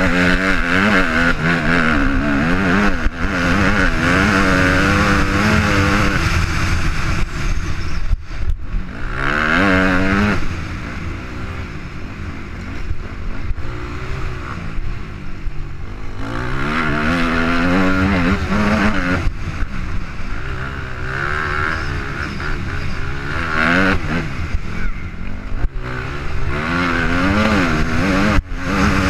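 Off-road motorcycle engine revving hard and easing off over and over, its pitch rising and falling with the throttle and gear changes, heard from a helmet-mounted camera. It drops to a quieter, lower note for several seconds in the middle, then builds again.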